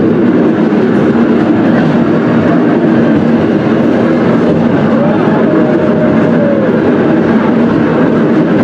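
Scenic Railway carriage running down its steep incline, wheels rumbling steadily on the rails, with a wavering squealing tone about five seconds in.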